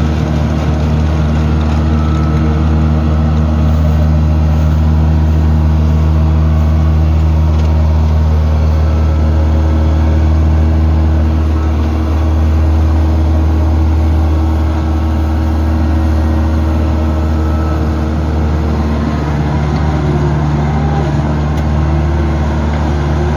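Single-cylinder diesel engine of a công nông farm tractor-truck running steadily with a low, even drone.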